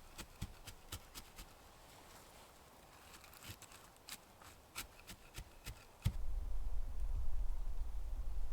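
Scattered light clicks and taps, several a second and irregular. About six seconds in, a steady low rumble starts suddenly.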